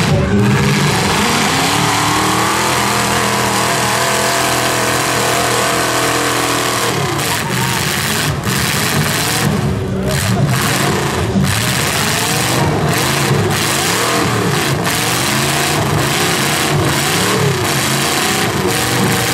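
Demolition derby car engines running and revving, held steady at first, then rising and falling repeatedly in the second half, with a few sharp bangs about eight to eleven seconds in.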